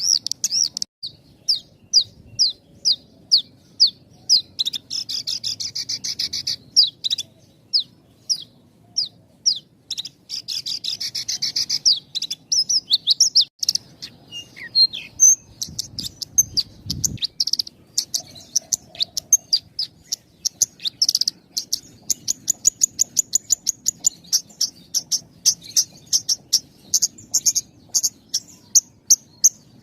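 Horsfield's bushlark (branjangan) singing a continuous song with very short pauses: quick, high, repeated chirps several a second, broken by brief buzzy trills, with the notes coming faster in the last third.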